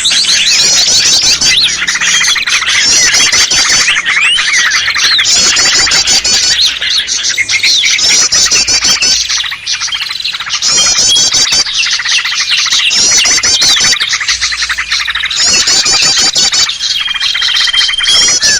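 Dense, loud chorus of many small songbirds calling at once, as in a mixed bird-lure track: a fast, chattering run of high notes recurs about every two seconds over a busy tangle of chirps and squawks. Near the end one bird holds a single steady whistle for about a second.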